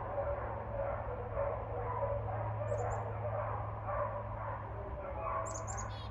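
Dogs barking on and off, with a steady low hum underneath and a few short bird chirps, one about three seconds in and more near the end.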